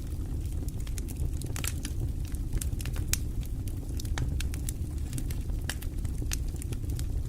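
Wood fire burning in a fireplace: a steady low rumble with frequent sharp, irregular crackles and pops of burning wood.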